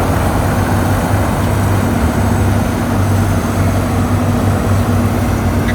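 Heavy diesel engine of earthmoving machinery running steadily under work, with a steady higher hum joining about two seconds in.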